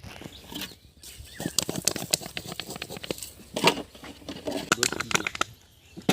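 Quick, irregular clicks and taps of fuchka (pani puri) being prepared by hand at a street stall, with a louder clatter about three and a half seconds in.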